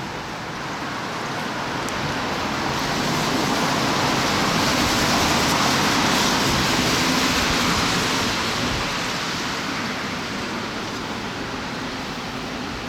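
A strong gust of wind rushing through leaves and plants, a steady hiss that builds over a few seconds and then slowly dies down.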